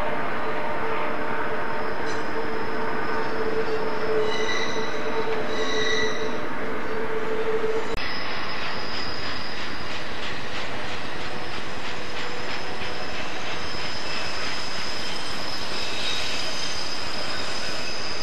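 Santa Fe intermodal freight cars rolling through a curve, their steel wheels squealing against the rail in several high held tones. About eight seconds in the sound changes abruptly to a steady run of quick wheel clicks under a thin high squeal.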